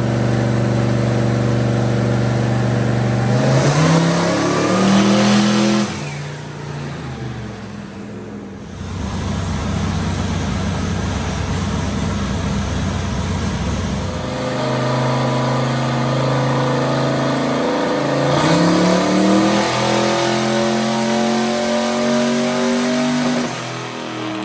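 Turbocharged small-block Ford V8 pickup running on a chassis dyno during a baseline pull on a base tune. It runs steadily, then revs up in a short rise that drops away. After a rough stretch without a clear engine note, it settles and then runs a longer rising pull under load that ends near the end.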